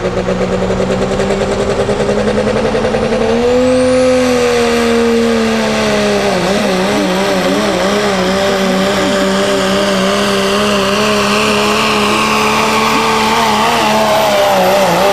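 Pro street diesel pickup truck under full throttle pulling the sled. The engine note steps up about three seconds in as a high whine climbs, then from about six seconds on the note wavers rapidly up and down as the truck labours down the track.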